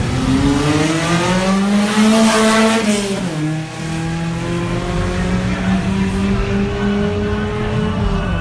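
A racing vehicle's engine accelerating hard, its pitch climbing, then dropping sharply about three seconds in at a gear change and climbing slowly again in the next gear.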